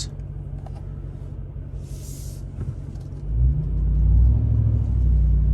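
Ram TRX's supercharged 6.2-litre V8 running at low revs, with a brief hiss about two seconds in. About three seconds in, the engine note rises and grows louder as the truck accelerates.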